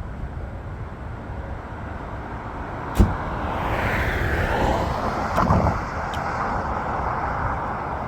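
Vehicle noise: a steady low rumble, then a sharp click about three seconds in, followed by a louder rush of noise that stays up, with a couple of smaller clicks after it.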